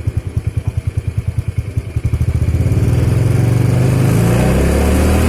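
Motorcycle running through a re-bored, baffle-drilled open exhaust. It idles in loud separate beats, about ten a second, then is revved up about two seconds in and held at higher revs.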